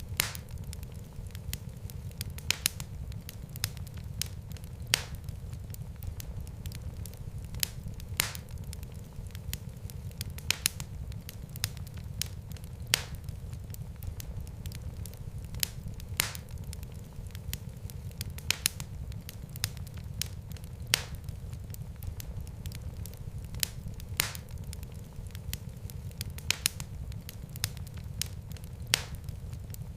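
Wood fire burning in a fireplace: a steady low rumble of flames with sharp, irregular crackles and pops every second or so.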